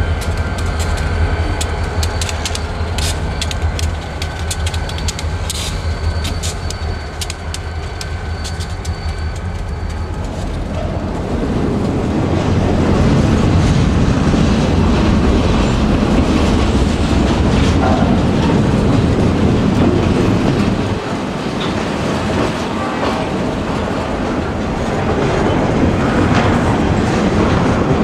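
Freight train of flatcars rolling past, its steel wheels clicking over the rail joints. About ten seconds in, the sound turns to a louder, deeper rumble of the cars passing close by.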